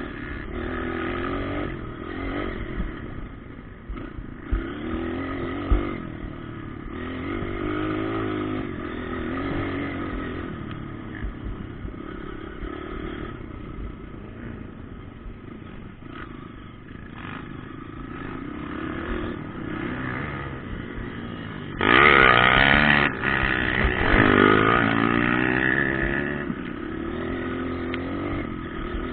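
Motocross bikes running on a dirt track, engines revving up and down repeatedly. Late on, one bike passes close and much louder, revving hard.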